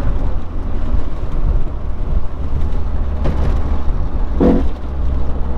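A Honda del Sol on the move, with a steady low rumble and a rubbing noise from a wheel, which the occupants take for a brake rotor hitting something, possibly worn rotors.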